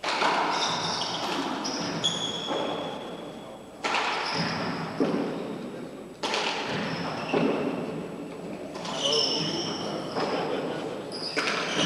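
Handball rally in an enclosed four-wall court: the rubber handball smacks the walls and floor several times, a few seconds apart, each hit ringing in the court.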